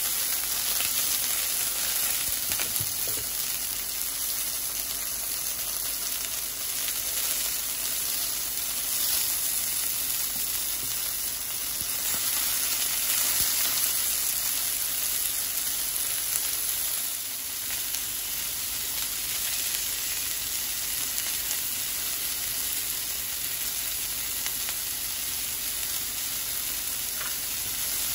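Chicken breast pieces and broccoli florets sizzling steadily in oil in a nonstick frying pan.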